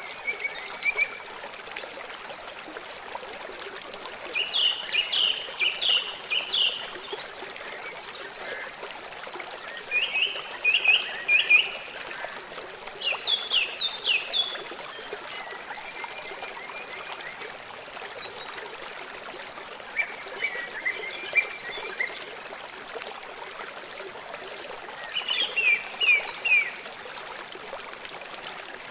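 A stream trickling steadily, with a songbird singing short phrases of quick, falling notes every few seconds, about six phrases in all.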